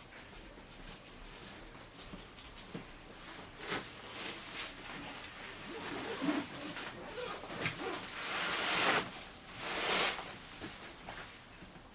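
Rustling and handling noises with scattered light clicks, as things are moved about. Near the end come two louder stretches of rustling, each lasting about a second.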